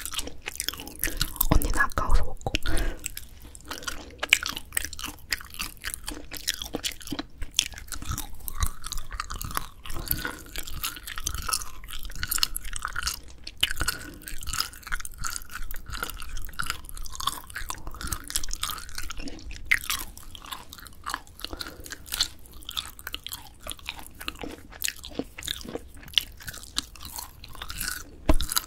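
Close-miked chewing of grilled dried filefish fillet (jwipo): steady crunchy chewing made of many small crackling clicks, louder about two seconds in.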